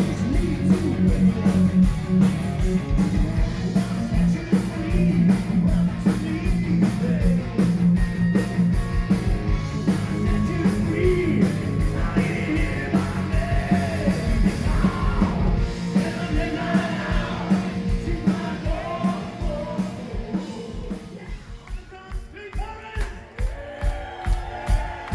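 A live rock band playing loudly, with singing over drums, bass and guitars. Near the end the full band drops away, leaving a steady kick-drum beat under the sung melody.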